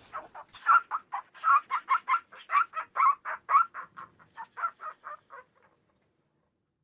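Chicken clucking in a quick run of short, evenly spaced clucks, about four a second, stopping about five and a half seconds in.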